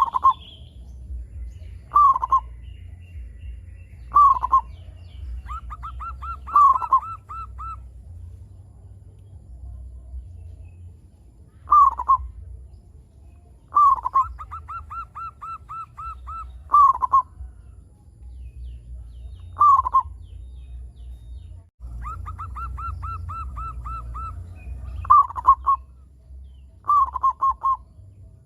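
Zebra dove (perkutut) cooing: short runs of quick, evenly spaced soft notes, each ending in a few louder falling coos, repeated every few seconds with a couple of longer pauses. A steady low hum runs underneath.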